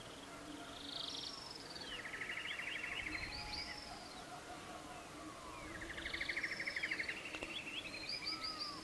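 Birdsong: a bird sings the same phrase twice, about five seconds apart. Each phrase is a few high notes followed by a fast trill.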